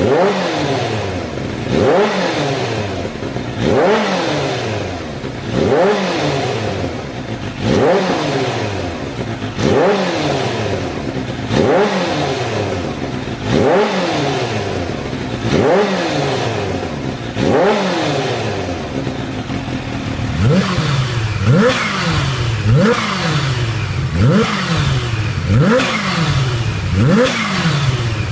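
Kawasaki H2's supercharged inline-four engine revved through its exhaust in repeated sharp blips, each rising quickly in pitch and falling back to idle, about one every two seconds. About two-thirds of the way in the blips come quicker, roughly one a second.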